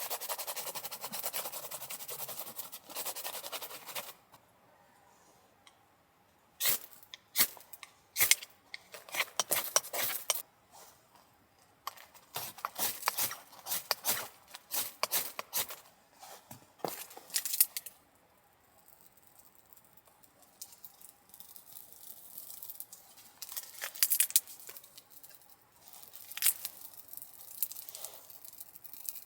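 Gear and packaging being handled by hand: a few seconds of steady rustling, then a long run of sharp clicks, clinks and crinkling tears with short quiet gaps between them, then a few scattered clicks near the end.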